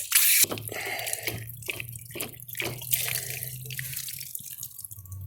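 Running water splashing in irregular surges, as from a hose or tap, over a low steady hum.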